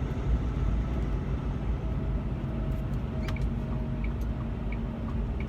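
Steady engine and road rumble heard from inside a semi-truck cab while driving.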